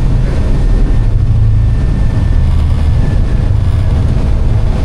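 Steady, loud low rumble of an airliner, with a faint high whine held through the middle.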